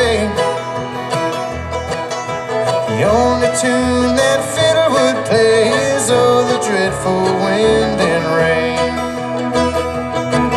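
Bluegrass band playing live: acoustic guitar and banjo picking.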